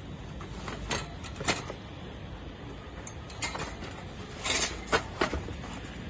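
Stainless steel folding camp stove being handled: a few separate clicks and knocks of metal parts, with one short scrape about four and a half seconds in.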